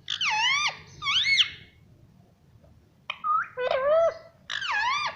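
Pet parrot's high, squeaky mimicked voice saying short two-syllable words, twice near the start and again in a run of three syllables about three seconds in.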